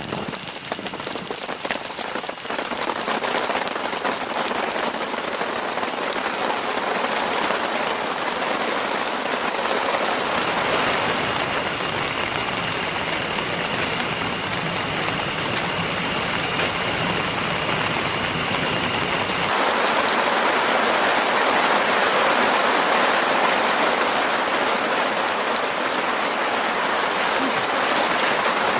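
Steady rain falling and hitting surfaces, a dense even hiss of many drops; its character shifts about ten and again about twenty seconds in.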